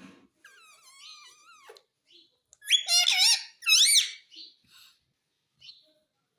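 Indian ringneck parrot calling: a thin, wavering squeaky call, then two loud squawks about three and four seconds in that bend up and down in pitch, followed by a few short chirps.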